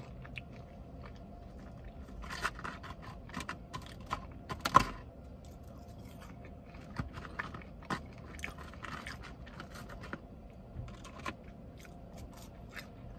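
Close-up mouth sounds of someone chewing food, in bursts of small wet clicks, with a sharper click about five seconds in, over a low steady hum.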